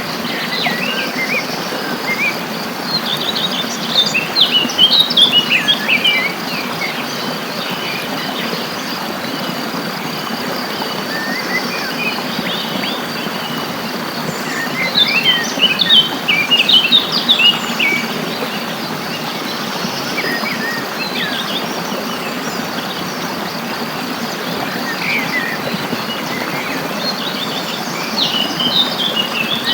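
Songbirds singing in bursts of quick, chirping phrases, three times about ten to twelve seconds apart, over a steady hiss and a constant high insect drone.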